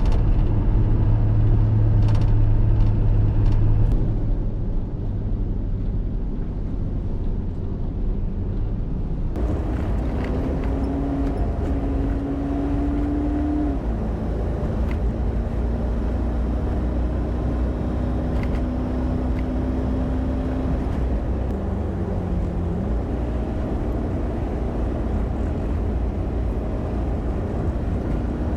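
Rollback tow truck's engine running steadily on the road, heard from the drive. Its note climbs slowly and drops back twice, about halfway through and again later.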